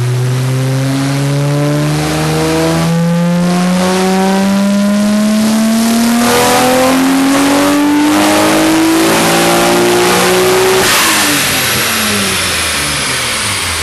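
Nissan Skyline GT-R's twin-turbo straight-six making a full-throttle dyno pull: the engine note climbs steadily for about eleven seconds, then the throttle is shut with a sudden burst of noise and the revs fall away as a high whine winds down.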